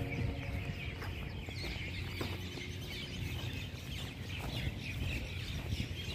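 A flock of birds chirping and calling, many short overlapping chirps, over a low outdoor rumble.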